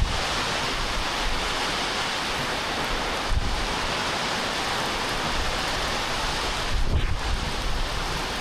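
A severe storm heard from inside a barn: heavy rain beating on the roof as a loud, steady hiss. There are a few low thumps, about three seconds in and again near seven seconds.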